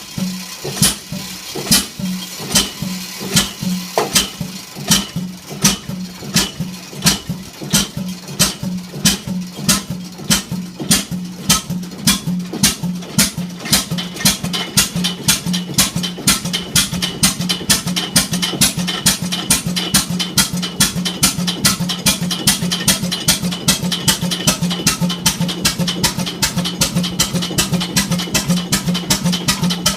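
Old slow-running diesel engine running, each firing stroke a sharp knock, gradually picking up speed from about two knocks a second to about three or four.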